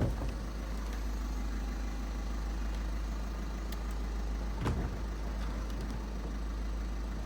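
Volkswagen Eos folding hard-top lowering under its electro-hydraulic mechanism: a steady mechanical hum with one short clunk about four and a half seconds in.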